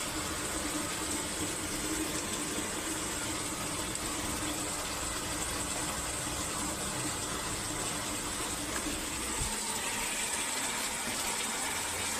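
Water rushing steadily in a washing machine, with a steady low hum underneath.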